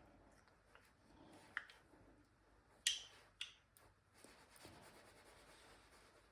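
Sparse, faint kitchen handling noises: a few light clicks and taps, the sharpest pair about three seconds in.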